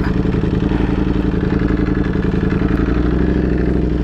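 Ducati Panigale V4's V4 engine through a Competition Werkes GP race exhaust, running loud at a steady engine speed with no revving.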